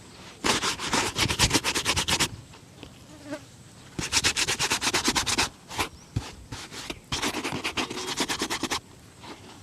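A shoe being buffed by hand in fast back-and-forth strokes, about nine a second, in three bouts with short pauses between them.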